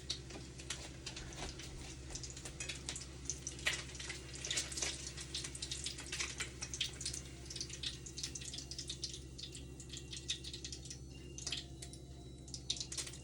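Egg and chicken breast frying in a pan with a lot of oil: a steady sizzle with frequent small crackles and pops of spitting oil, over a constant low hum.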